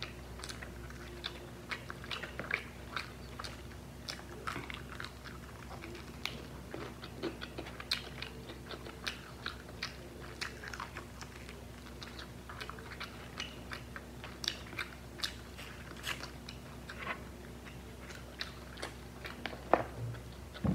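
A person chewing and biting fried chicken close to the microphone: irregular wet mouth clicks and crunches, one or two a second, with a louder bite near the end. A faint steady hum sits underneath.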